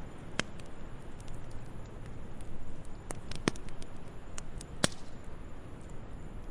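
Fireplace fire crackling: a steady hiss of burning wood with scattered small snaps and a few sharper pops.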